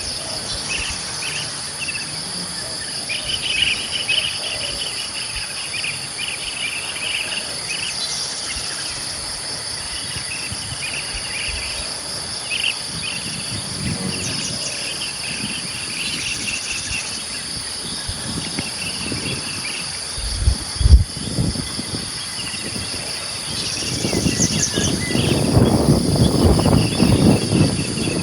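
Steady, high insect trilling, typical of crickets, with birds chirping over it in short repeated phrases. About 21 seconds in there are two sharp low thumps, and near the end a louder low rumbling noise swells up under the insects.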